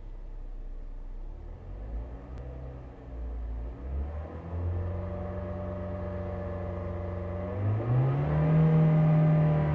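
Car engine revved up in two steps, rising about four seconds in and again near eight seconds, held steady and louder after the second rise. The owner posts it as an abnormal engine noise.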